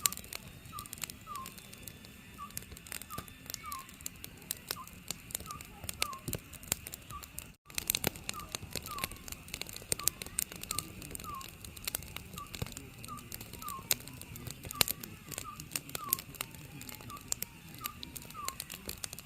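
Oriental scops owl calling over and over in short, evenly paced hoots, with a wood fire crackling and popping throughout. The sound drops out for a moment about seven and a half seconds in.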